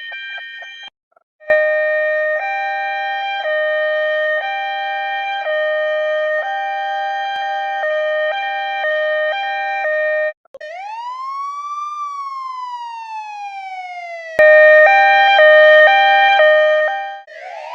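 Electronic emergency-vehicle siren in a two-tone hi-lo pattern, switching pitch about every half second. Partway through it breaks into one long wail that rises for about a second and a half and then falls for over two seconds. The hi-lo pattern then returns, louder, and cuts off near the end into a fast warble.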